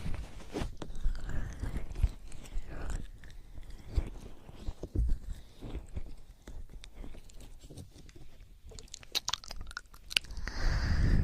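Close-miked wet crackling and squishing with irregular clicks and soft thumps, the kind of ASMR ear-cleaning sound made right against the microphone; it is sparser for a while past the middle and denser near the end.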